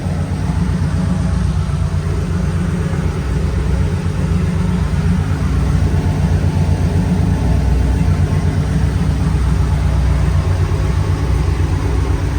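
Old truck's engine idling steadily, heard from inside the cab.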